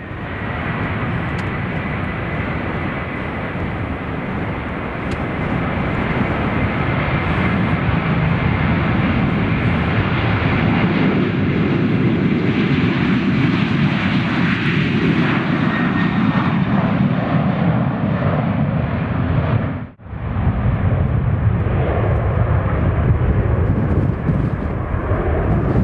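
Jet airliner engines running loud as the aircraft goes past, the noise carrying a faint steady whine and a sweep that falls in pitch over several seconds. The sound cuts off abruptly about two-thirds of the way through and similar engine noise starts again.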